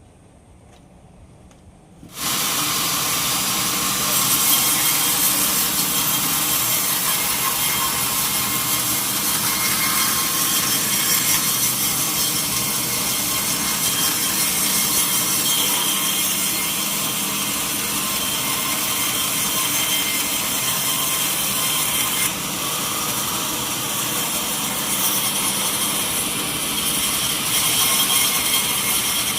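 Sawmill saw cutting through a mahogany log: a loud, steady sawing noise that starts suddenly about two seconds in, after a quiet moment, and runs on without a break.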